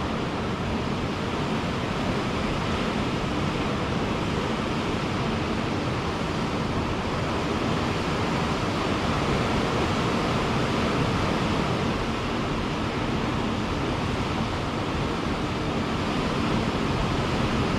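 Ocean surf breaking on a beach, a steady wash of noise with no single wave standing out.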